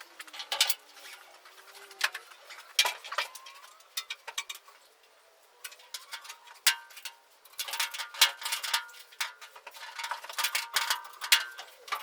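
Ratchet being worked: several bursts of rapid metallic clicks with a faint ring, with short pauses between the bursts.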